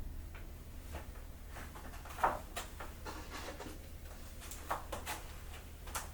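Scattered light clicks and taps of household objects being handled, with a louder knock about two seconds in and a few quick clicks near the end, over a low steady hum.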